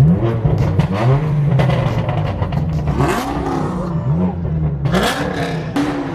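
Straight-piped BMW M4 F82's twin-turbo inline-six being blipped at a standstill: a series of short revs, each a quick rising pitch that falls back to idle. Several sharp exhaust cracks between the revs.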